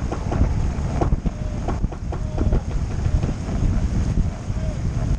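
Wind buffeting the microphone aboard a sailboat under way, a dense rumble broken by scattered knocks and splashes.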